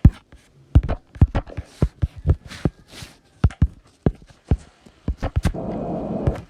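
A run of irregular sharp knocks and thuds, a few of them loud, with a short stretch of dense rustling noise near the end.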